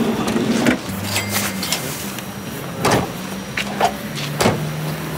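Minivan engine idling steadily, with a few sharp knocks: one near the start, one about three seconds in and one about four and a half seconds in.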